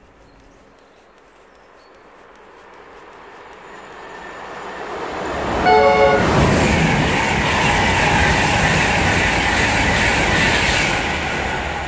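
Class 91 electric InterCity train approaching and passing through the station at speed, its noise building over several seconds. The driver gives a short horn blast about six seconds in, as the train comes level and rushes past.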